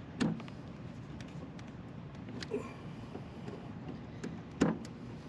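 Hand tools working in an air-conditioner condenser's control panel: two sharp knocks about four and a half seconds apart, with a few light clicks in between.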